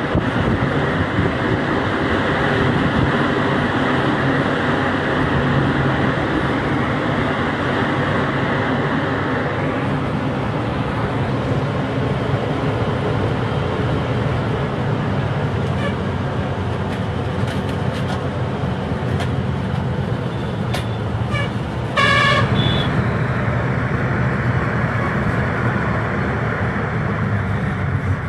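Truck running on the road, a steady engine and road noise throughout. A vehicle horn sounds briefly about three-quarters of the way through, the loudest moment, after a few shorter, fainter toots.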